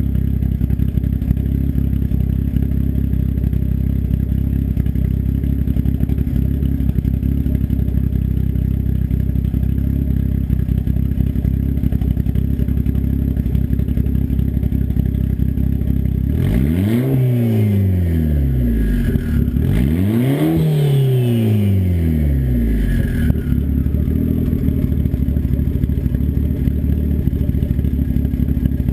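Turbocharged engine with an S257 turbo and an open 3-inch turn-down dump off the downpipe, idling steadily. It is revved twice in quick succession past the middle, each rev climbing and then falling back to idle.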